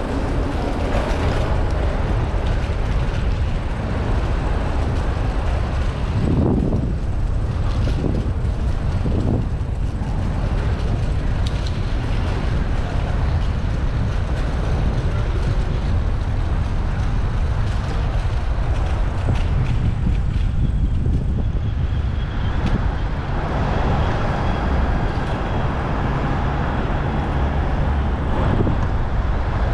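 Steady wind rush and road noise on a bicycle-mounted action camera while riding through city traffic, with a few brief swells from passing vehicles about a quarter of the way in.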